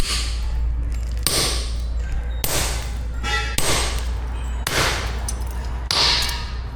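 Blacksmith's hammer striking metal, six even blows about a second apart, each with a short ring, over a steady low hum.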